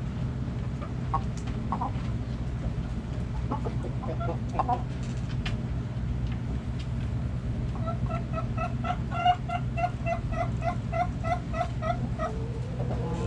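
Backyard hens clucking: scattered short clucks at first, then a hen gives a quick, even run of clucks, about three a second, for several seconds. A steady low hum runs underneath.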